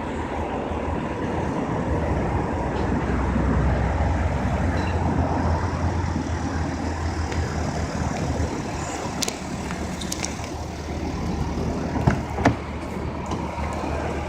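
A car engine running: a steady low rumble that swells about 3 seconds in and eases off again by about 7 seconds, with two sharp clicks about 12 seconds in.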